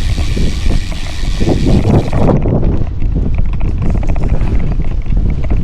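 Wind buffeting the microphone of a camera on a moving bicycle, a loud, uneven low rumble.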